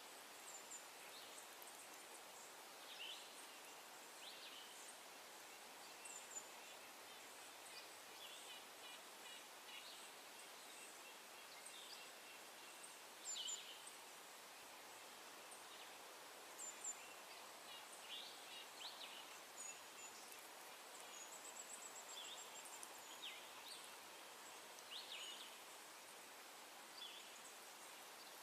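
Faint wild birds calling: scattered short high chirps every second or two, with a brief rapid high trill about three quarters of the way through, over a steady soft hiss of outdoor ambience.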